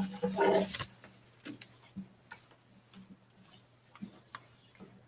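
A voice briefly at the start, then a quiet room with a faint steady low hum and scattered small clicks and knocks.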